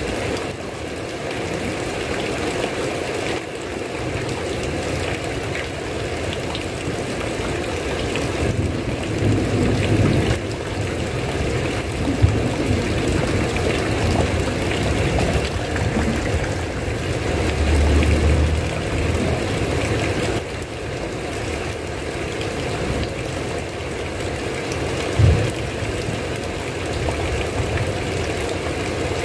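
Steady, heavy rain, with a few low rumbles, the strongest about two-thirds of the way through, and one short low thump near the end.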